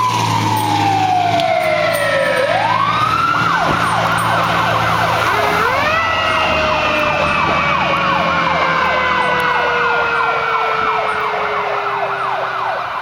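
Fire engine sirens on a responding fire engine. A wail winds down, then about two and a half seconds in a fast up-and-down yelp starts and keeps going, while a second tone slowly winds down beneath it over a low engine rumble.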